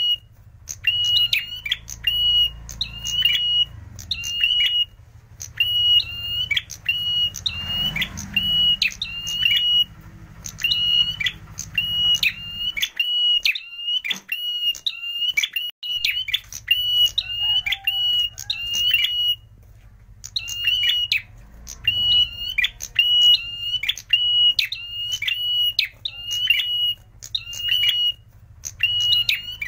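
A caged tailorbird (prenjak merah) calling a long series of short, sharp, high notes, about two a second, with a few brief pauses.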